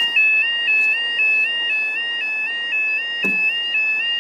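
Level crossing audible warning alarm sounding: a steady two-tone yodel that switches back and forth between two high pitches in an even, rapid rhythm. It signals that the barriers are down and a train is approaching.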